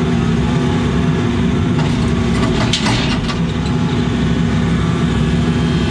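Case CX80 excavator's diesel engine running steadily while the machine works on cold hydraulic oil, with a short burst of higher-pitched noise near the middle.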